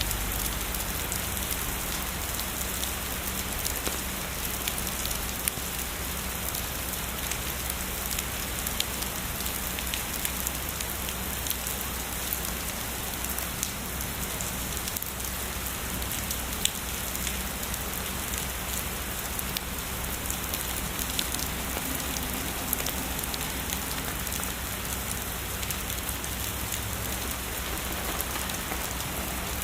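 Heavy rain falling steadily: a constant hiss with many scattered sharp drop ticks.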